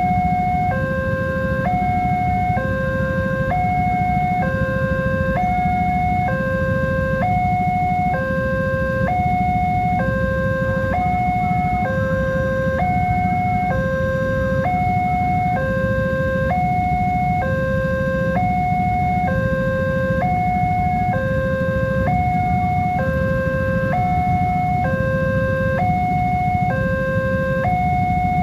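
Electronic two-tone level crossing warning alarm sounding continuously, alternating high and low tones about every three-quarters of a second, over a steady low rumble.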